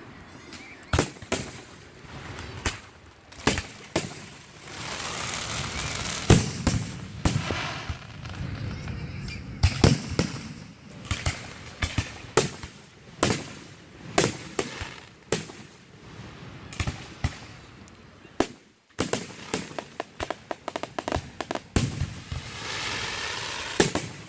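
Aerial fireworks show: a rapid, irregular series of sharp bangs, several a second at times, with stretches of hiss between them.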